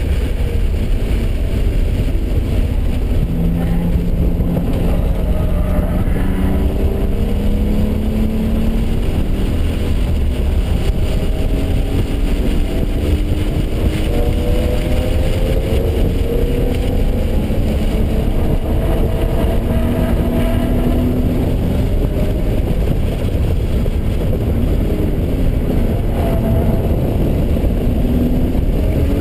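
BMW engine under hard acceleration on a racetrack, heard from inside the cabin. Its pitch climbs again and again as it pulls through the gears, over a heavy rumble of road and wind noise.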